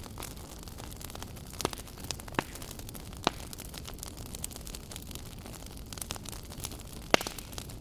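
Wood fire burning in a fireplace: a low steady rumble of flames with scattered crackles and a few sharp pops, the loudest near the end.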